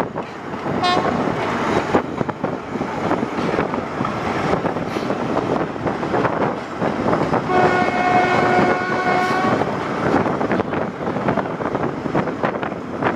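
Passenger train running out of the station: steady rumble and rail noise from the rolling coaches. A short horn toot comes about a second in, and a steady train horn blast of about two seconds sounds a little past the middle.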